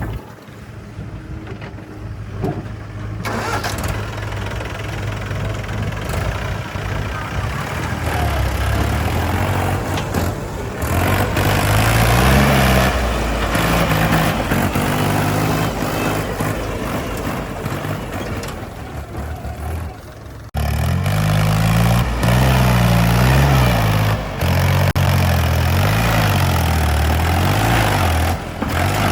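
Heavy diesel engine of earth-moving machinery running and revving under load, its pitch rising and falling again and again. The sound changes abruptly about three seconds in and again about twenty seconds in.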